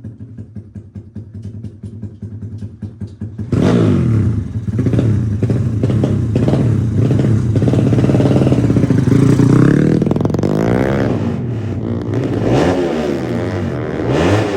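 Bored-up 150 cc Honda Supra single-cylinder four-stroke motorcycle engine idling with an uneven beat, then revved hard from about three and a half seconds in and held at high revs, the revs falling and climbing again a few times near the end.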